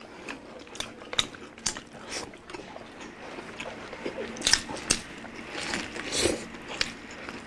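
Close-miked chewing and biting: wet mouth clicks and small crunches from two people eating with their hands, over a faint steady hum. A louder bite comes about six seconds in, as a boiled cabbage leaf is bitten.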